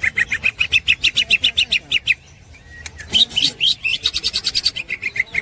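Cucak hijau (green leafbird) singing its rapid 'ngekek' chatter: quick runs of repeated high notes, about seven a second, broken by a short pause about two seconds in.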